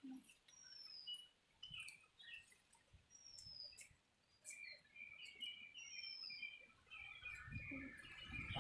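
Faint birds chirping, with a clear downward-sliding whistle about every three seconds and scattered soft clicks.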